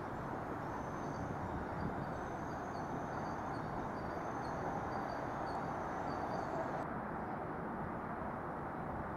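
Steady rumble of an NJ Transit push-pull commuter train moving off along the platform, with faint high chirps about twice a second. About seven seconds in it gives way to a steady open-air noise.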